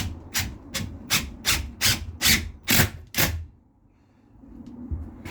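Hand saw cutting in quick, even back-and-forth strokes, about nine strokes at roughly two and a half a second, stopping a little over three seconds in.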